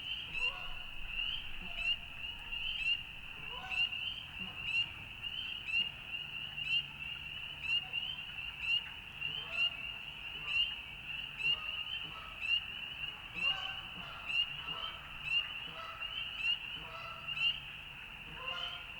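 A chorus of frogs calling: a dense high-pitched peeping, with one nearer caller standing out about once a second.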